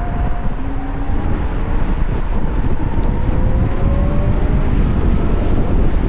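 Wind buffeting the microphone over a heavy low rumble while riding a VMoto Stash electric motorcycle. The electric motor's thin whine rises slowly in pitch as the bike accelerates.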